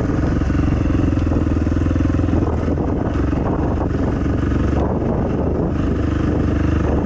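Dirt bike engine running steadily while riding, its pitch holding fairly even throughout.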